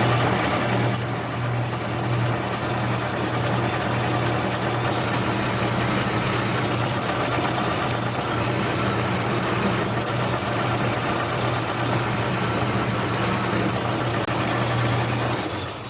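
Metal lathe running steadily while turning a workpiece down in diameter, a motor hum under the noise of the cut, with a high hiss coming and going three times as the tool works.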